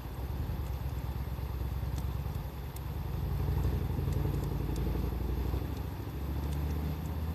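Wood fire crackling with sparse faint pops over a louder, low rumble of a vehicle engine that swells a few seconds in and shifts pitch near the end.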